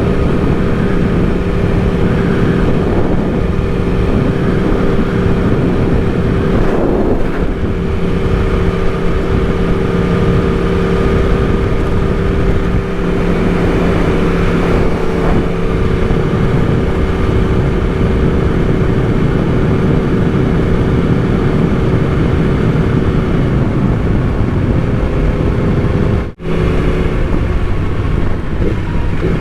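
Yamaha R1 sport bike's inline-four engine running at a steady cruising speed, with wind rushing past the microphone. The sound cuts out for an instant near the end.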